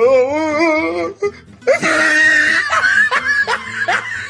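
Laughter sound effects over music: a wavering laugh, then a short pause, then a run of quick rising laughs.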